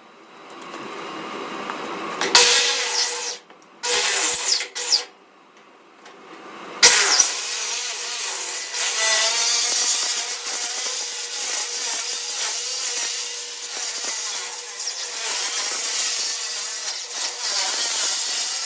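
A power tool cutting 1/8-inch aluminum sheet. It comes in a few short bursts in the first five seconds, then from about seven seconds in it makes a long, steady cut with a high, hissing sound.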